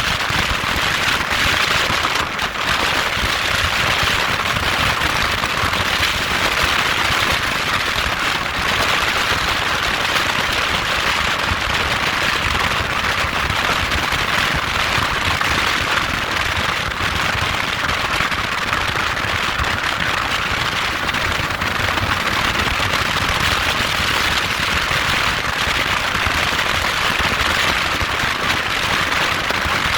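Small motorcycle engine running steadily, a dense rapid crackle that holds an even pitch and level throughout.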